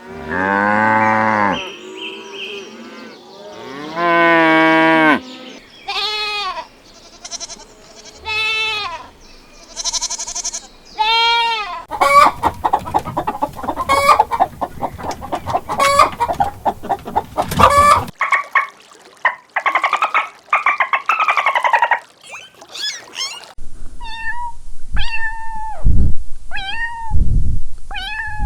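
A run of different farm animal calls, one after another: pitched bleating cries in the first seconds, a stretch of rapid chicken clucking in the middle, and short repeated fowl calls near the end.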